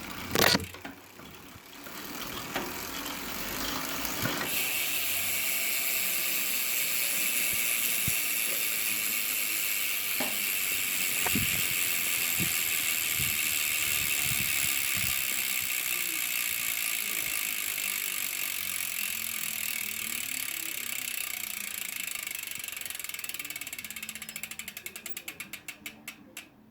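Novatec D792SB bicycle rear hub freewheeling: the pawls ratchet in a fast, continuous buzz as the wheel spins, slowing into separate clicks near the end as the wheel coasts to a stop. A sharp knock sounds about half a second in.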